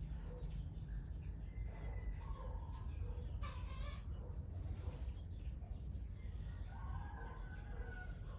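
Birds calling in short, scattered notes, with one harsh, noisy call about three and a half seconds in, over a steady low rumble.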